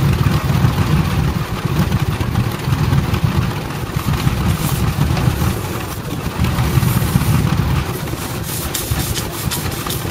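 Half-scale Case 65 hp steam traction engine running while pulling a load: a steady, uneven low rumble, with a few sharp clicks near the end.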